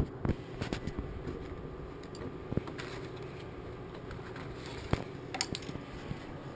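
Scattered light clicks and knocks of carbon-fibre frame parts being handled and fitted together, over a faint steady room hum, with a slightly sharper knock about five seconds in.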